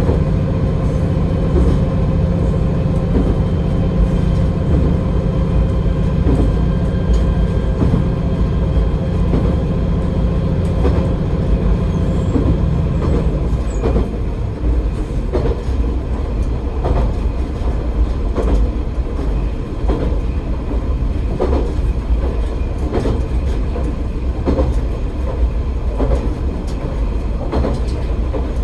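Akita Nairiku Line AN-8800 single-car diesel railcar running on the line. Its steady engine hum drops away about halfway through as it shuts off power and coasts, and after that the wheels click over the rail joints.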